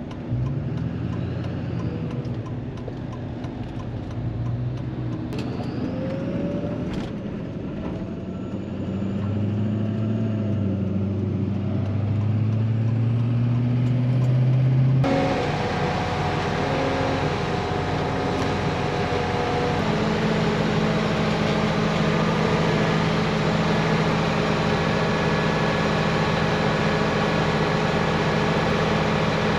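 Semi-truck engine pulling through its gears, its pitch climbing and dropping with each shift. About halfway through the sound cuts abruptly to a steadier, louder engine drone with more road and wind hiss.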